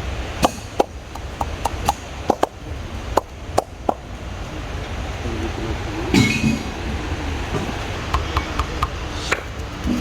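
Hands slapping and patting on bare skin during a massage, an irregular run of sharp slaps, thickest in the first few seconds and a few more near the end, over a steady low rumble.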